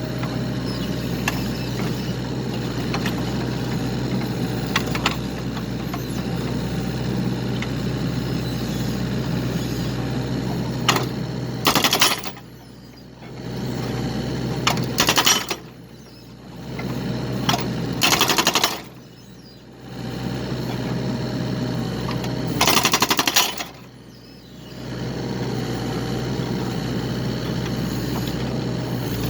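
Excavator running steadily while working a firewood-splitting attachment; from about twelve seconds in, several loud harsh bursts a few seconds apart, each followed by a brief drop in level.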